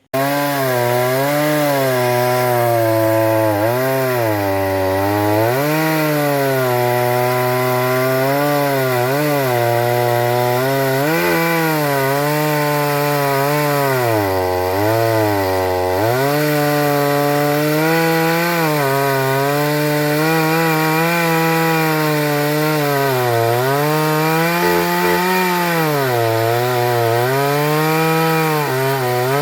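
Two-stroke chainsaw running at high revs and cutting wood. Its engine pitch sags again and again as the chain bites into the wood, then recovers.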